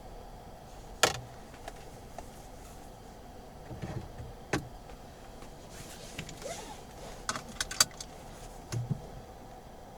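Sharp clicks and a few soft knocks inside a car over a faint steady hum: one loud click about a second in, another a few seconds later, and a quick run of clicks followed by two dull knocks near the end.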